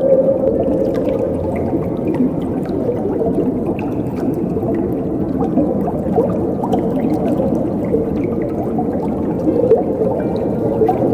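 Running water, a steady churning flow with its sound weighted low, and faint scattered ticks of droplets over it.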